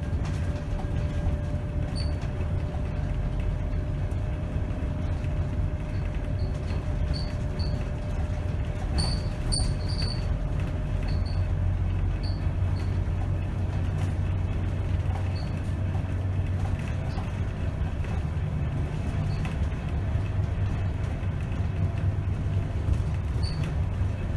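Scania K270 city bus on the move, its rear-mounted diesel engine and drivetrain running as a steady low rumble heard inside the bus. Short high squeaks or rattles come and go, several of them in the middle.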